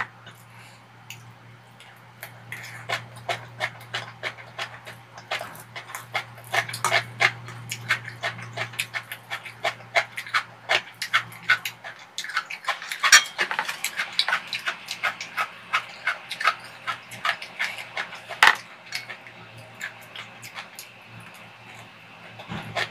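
Close-miked eating sounds of kimchi fried rice: a dense, irregular run of wet chewing, lip smacks and mouth clicks. A metal spoon now and then scrapes and clinks against the pan.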